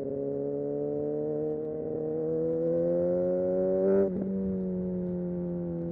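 Kawasaki Ninja ZX-6R's inline-four engine pulling under throttle, its pitch climbing steadily for about four seconds, then dropping abruptly and settling into a slowly falling note.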